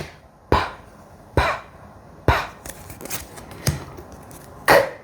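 A voice making isolated unvoiced consonant sounds for letter-sound practice: five short, sharp puffs like "p" and "k", spaced about a second apart.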